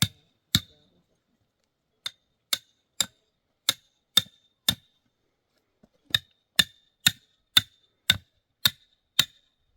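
A tent peg being hammered into the ground with steady blows, about two a second, each with a short high ring. The blows come in three runs: two, then six, then seven, with brief pauses between.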